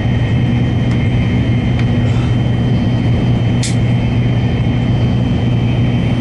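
N700-series Shinkansen running at speed, heard inside the passenger car: a steady low rumble with a faint steady high whine above it. A brief hiss comes about three and a half seconds in.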